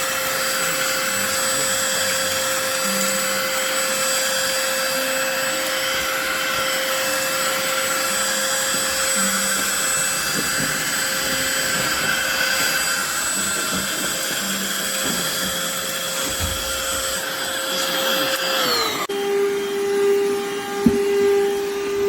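BSRCO cordless handheld vacuum running, a steady motor whine over rushing air. About 19 seconds in the whine slides down to a lower pitch and the air noise thins.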